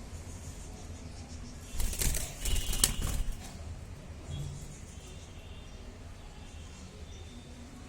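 Budgerigar wings flapping in a loud, rapid burst lasting about a second and a half, starting about two seconds in, followed by a few faint high chirps.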